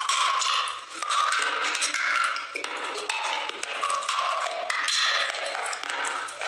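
Close-up crunching and scraping of brittle chalk-like clay pieces being bitten and chewed, a dense run of crisp crackles with no pause.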